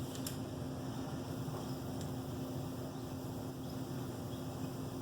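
Steady low mechanical hum with a constant tone, with a faint click just after the start and another about two seconds in.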